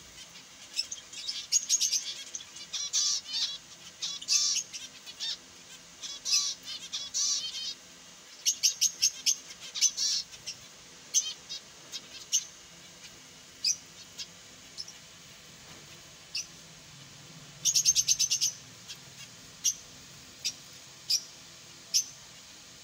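Finches chirping: many short, high calls, busiest in the first ten seconds, with a quick run of rapid repeated notes about 18 seconds in.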